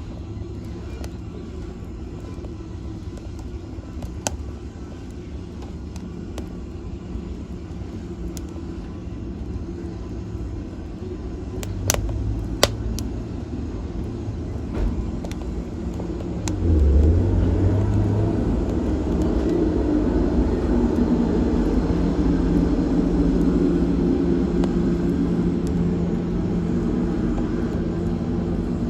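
Wood fire burning in a fireplace with a steady low rush and a few sharp crackling pops. About two-thirds of the way in, a louder low rumble swells up and keeps going.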